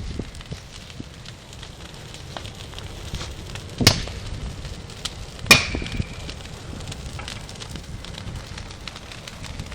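Wood bonfire crackling steadily, with two loud sharp pops, about four and five and a half seconds in. The second pop leaves a short ring.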